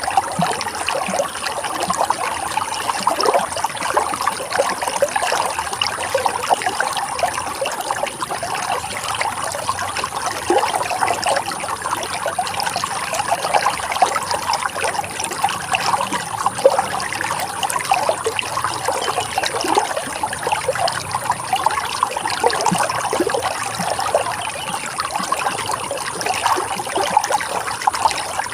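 Running water trickling and splashing steadily, a dense stream of small splashing sounds with no pauses.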